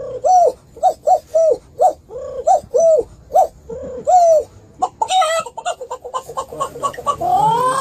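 A bird calling: a series of short, arched, cooing calls, about two a second. About five seconds in these give way to a quick run of short clicking notes, and near the end comes a longer rising call.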